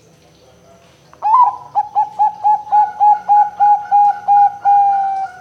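Zebra dove (perkutut) singing. About a second in comes a sharp opening note, then a quick run of about a dozen short cooing notes at roughly four a second, ending in a longer drawn-out note that fades.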